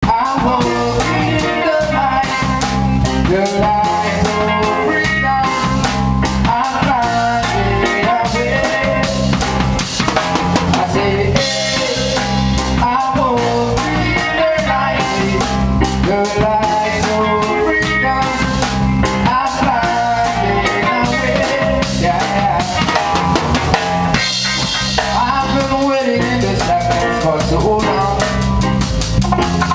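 A live band playing an upbeat instrumental groove: drum kit with rimshots and a steady bass line, with melodic instrument lines over it.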